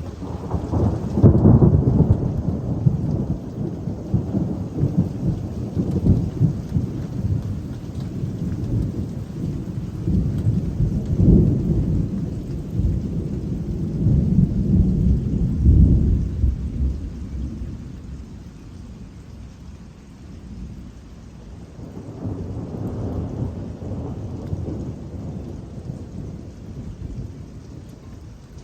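Thunder rolling low and long over steady rain. It is loudest through the first half, dies down, then a softer second rumble comes near the end.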